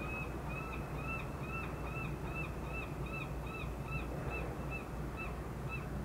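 A bird calling a long run of short, clear notes, each rising then falling, about two or three a second, over a steady low rumble.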